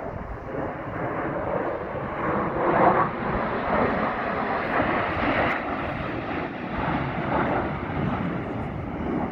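Engine noise from an airplane flying past at an aerobatic air show, swelling to its loudest about three seconds in and then carrying on steadily.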